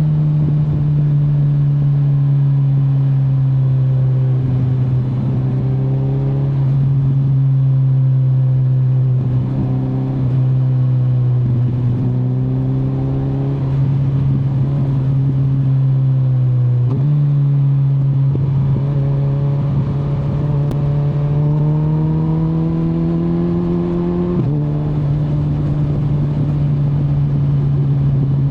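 2025 Kawasaki Z900's inline-four engine pulling under throttle, its revs climbing and easing again and again, with a sudden change in engine pitch at gear changes twice in the second half, over a low rush of wind.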